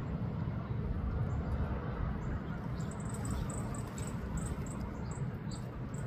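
A small bird giving a run of short, very high chip notes, about three a second, starting about halfway through, over a steady low rumble.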